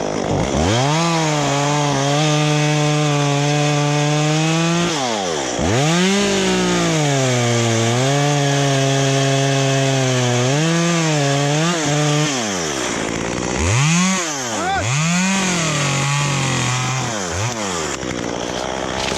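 Two-stroke chainsaw cutting into eucalyptus wood: the engine revs up, holds a steady pitch under load, dips and revs again a few times midway, then drops back near the end.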